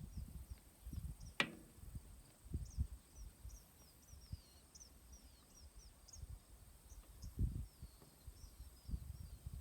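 Wind buffeting the microphone in low, uneven gusts, with a bird chirping repeatedly in short high notes in the background and a single faint click about a second and a half in.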